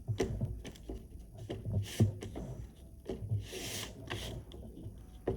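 Black oil pastel dabbed onto paper to make little dots: an irregular string of short taps, with a few brief scratchy rubs of the crayon.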